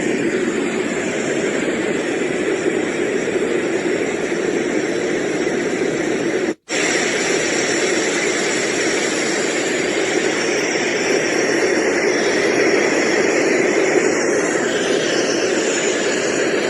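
Portable white noise machine playing a steady rushing noise. About six and a half seconds in it cuts out for a moment and comes back as a slightly different, hissier noise sound.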